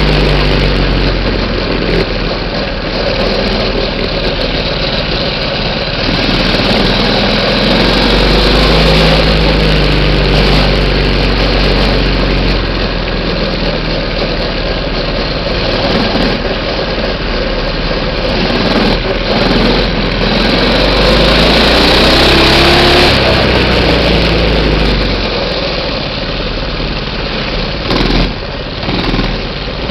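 Minibike's small engine running loud and close, its pitch rising and falling as the throttle is opened and eased off, with a short dip in level near the end.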